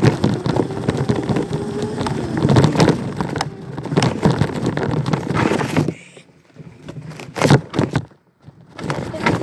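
Bike riding over rough ground, its tyres crackling and scraping over sticks and dirt, with a rattle of the frame. The noise eases off about six seconds in, leaving a few sharp knocks.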